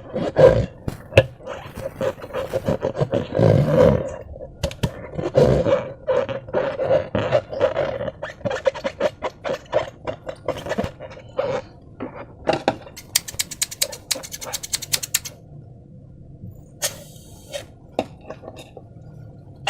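Clear slime being squished and stretched by hand: dense wet squelching and crackling pops for the first half, thinning to scattered pops, with a fast run of crackles and a brief hiss near the end.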